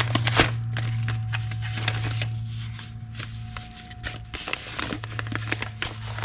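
Hands handling small objects on a workbench: scattered light clicks and rustles over a steady low hum.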